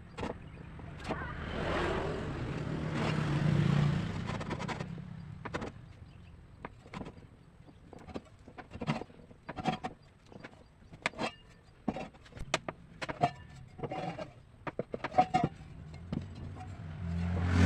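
A motor-like hum that swells and fades over the first few seconds, followed by a run of scattered clicks and knocks. A second hum rises near the end.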